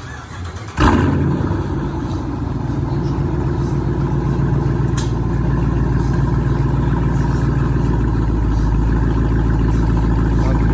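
5.7 Hemi V8 starting with a sudden loud burst about a second in, then settling into a steady deep idle through a straight-piped exhaust with the mufflers and resonators deleted. It is not yet as loud as expected, which the owners put down to the active exhaust.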